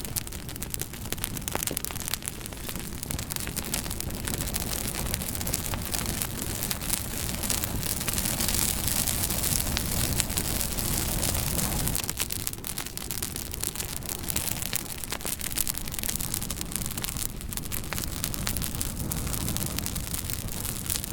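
Wood campfire crackling: a steady hiss dotted with frequent sharp pops and snaps, the hiss growing louder for a few seconds in the middle.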